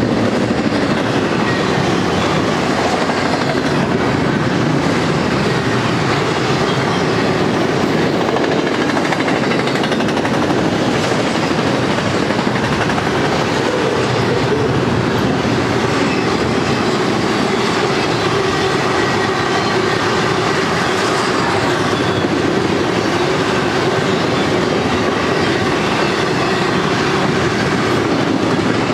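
Freight cars of a Union Pacific train rolling past at speed: a steady, loud rumble of steel wheels on rail, with faint thin squealing tones from the wheels coming and going.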